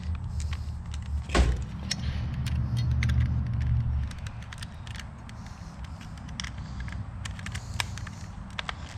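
Clicks and knocks of wood pieces and tools being handled, with one sharp knock about a second and a half in, over a low steady hum.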